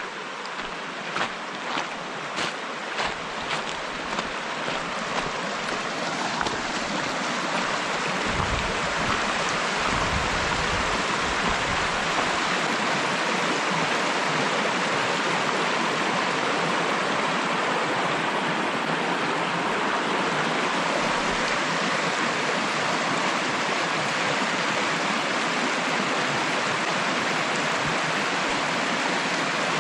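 Steady rushing of flowing stream water, growing louder over the first several seconds and then holding even. A series of light knocks, a little under two a second, sounds in the first few seconds.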